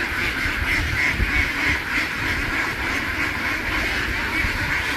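A large flock of ducks quacking together in a dense, continuous chorus, with a low rumble underneath.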